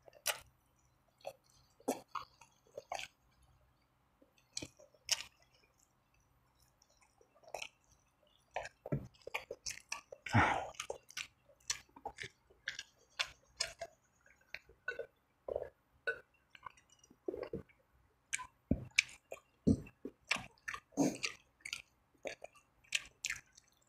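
Close-miked mouth sounds of a person chewing fried chicken: irregular wet smacks and clicks with short pauses, the busiest stretch about ten seconds in.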